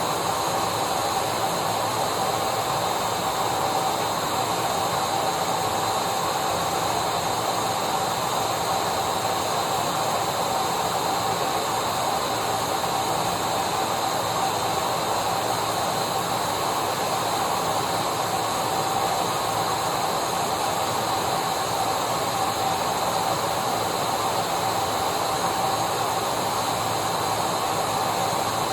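Electric vacuum cleaner running steadily: a constant rush of air with a steady whine over it, unchanging throughout.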